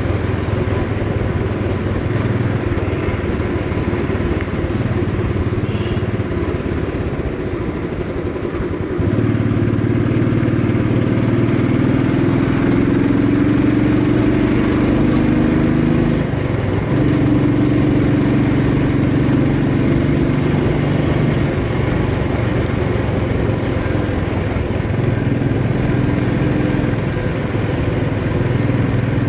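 Motorcycle engine running on the move. About nine seconds in it gets louder and rises in pitch, drops for a moment a few seconds later, then runs steadily again.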